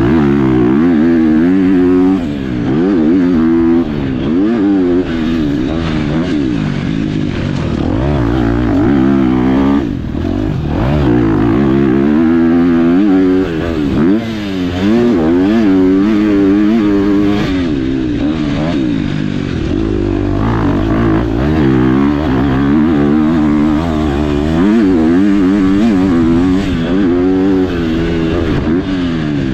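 KTM dirt bike engine under hard riding, its pitch climbing and dropping again and again as the throttle is opened and closed through the gears, with short drops in level every few seconds.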